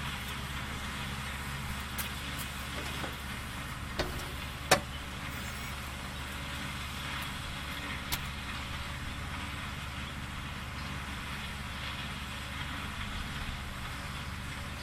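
A car engine idling steadily, with a few sharp clicks or knocks over it, the loudest about five seconds in.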